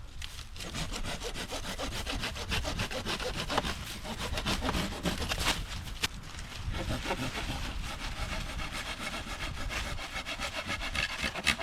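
Hand saw cutting through a dry wooden pole with steady back-and-forth strokes.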